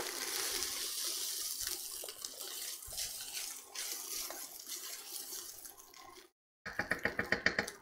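Egg fried rice sizzling in a hot wok as it is stirred and pushed around with a wooden spatula, with light scraping and clicking of the spatula on the wok. The sizzle fades and cuts off about six seconds in, followed by a brief buzz near the end.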